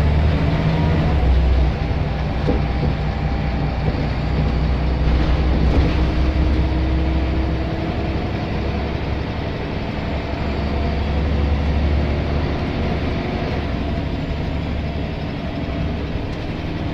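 Scania L94 single-deck bus's five-cylinder diesel engine running, a steady low drone that fades and swells in strength as the bus drives.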